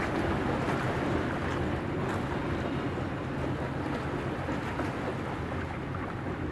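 Diesel locomotive of a container freight train running, a steady low rumble that slowly eases off.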